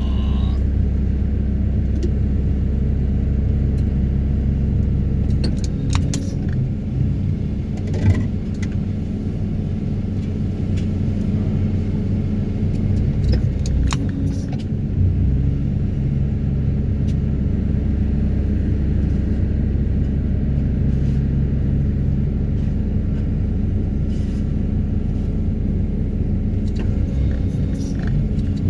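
Excavator-mounted Daedong 350T vibro hammer vibrating a steel sheet pile to pull it out of the ground: a loud, steady low drone that shifts pitch a couple of times, with the excavator engine working under load. A few sharp metallic knocks are scattered through it.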